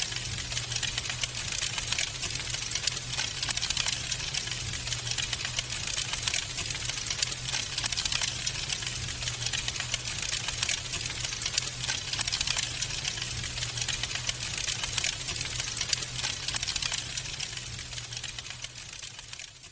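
Wood fire burning in a fireplace, crackling with a constant stream of small snaps and pops over a steady low rumble. It fades down near the end.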